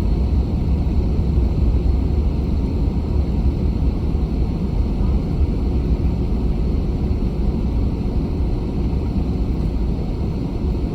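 Steady low rumble inside an Airbus A320 cabin while it taxis after landing, from the jet engines at idle and the wheels rolling.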